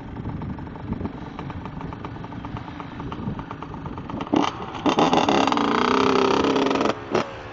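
Motocross bike engine running rough and steady. About four and a half seconds in it is blipped, then revved hard for about two seconds, rising and falling in pitch, and cut off sharply, with one more quick blip just after.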